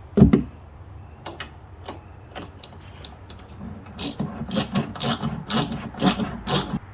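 Hand tools at work on a car's rear brake assembly: one sharp knock, then for the last three seconds a rhythmic series of rough strokes, about two a second.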